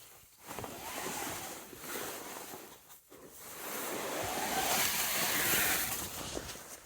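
Telescope cover rustling and swishing as it is pulled and shifted, in two swells, the louder one in the second half.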